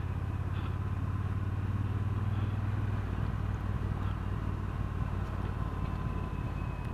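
Motorcycle engine running steadily at low revs while riding; its note eases off about three seconds in.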